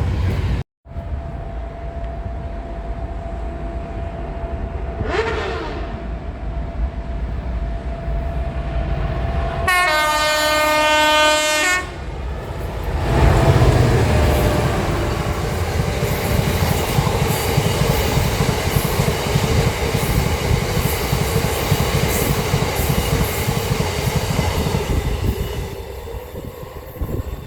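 A train horn sounds one steady blast of about two seconds, then a train passes at speed with loud rumbling and wheel clatter that fades away near the end.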